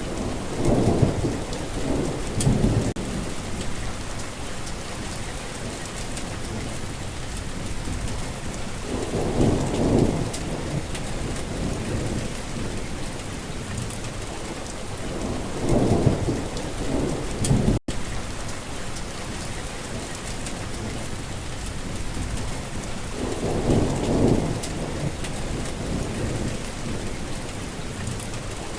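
Heavy rain falling steadily, with low rolls of thunder about every seven seconds, each rumbling for a couple of seconds. There is a split-second gap in the sound about two-thirds of the way through.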